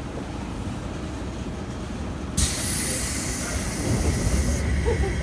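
Interior running sound of a JR West 201 series electric train, recorded in a motor car: a steady rumble of wheels and running gear. About halfway through, a loud hiss of air starts suddenly, lasts about two seconds and cuts off.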